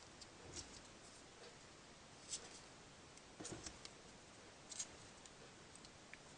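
Faint clicks and rustles of folded paper pieces being slotted together into a 3D origami model: a few soft, short ticks spread over several seconds, over near silence.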